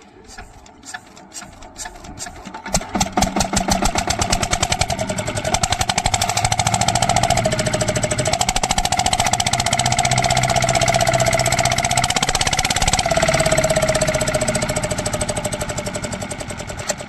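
Lister diesel water-pump engine starting. Slow, separate firing beats quicken over the first couple of seconds until it catches and runs loud and steady. Its note dips briefly a couple of times, and it eases off slightly near the end.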